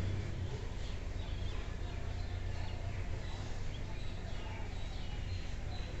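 Faint steady background noise with scattered faint bird chirps; no sneeze.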